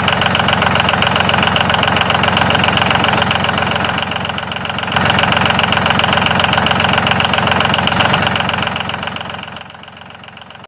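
Tractor-style engine running steadily at idle, with a fast knocking rhythm. It dips briefly about four seconds in and fades away near the end.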